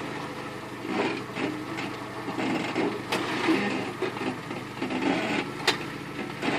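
Jeep Wrangler's engine running with a steady low hum while the vehicle grinds down a rock ledge: scraping of tires and body on rock, with three sharp knocks about one, three and five and a half seconds in.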